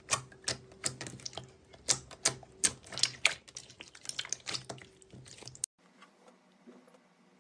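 Slime being worked by hand, making irregular sharp clicks and wet pops, several a second. About two-thirds of the way through, the sound cuts off abruptly to a much fainter stretch.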